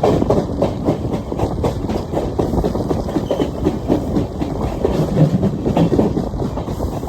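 Indian Railways passenger train running along the track, with a steady dense clatter and rattle of wheels and carriage.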